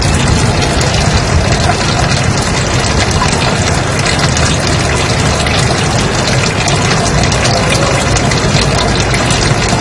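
Steady, loud white-noise track: an even rushing hiss with a strong low rumble, unchanging throughout.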